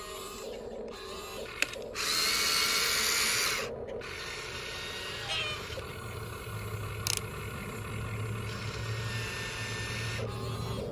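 Small electric motors of a remote control toy excavator whirring. About two seconds in comes a louder burst lasting about a second and a half, followed by quieter whirring with a few clicks.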